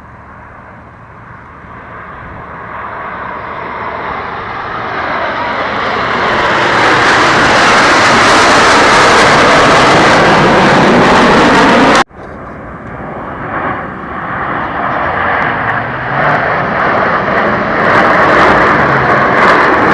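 Aircraft flying past low. The engine noise swells over about seven seconds to a loud, steady level, breaks off abruptly about twelve seconds in, then a second pass builds up loud again.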